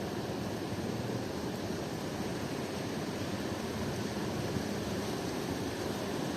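Steady rushing noise of strong wind and surf at the shore, with no distinct events.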